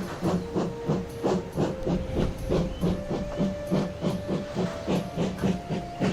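Steam locomotive sound effect from an animated train episode: a steady chuffing of about four beats a second, with a thin tone above it that climbs in small steps.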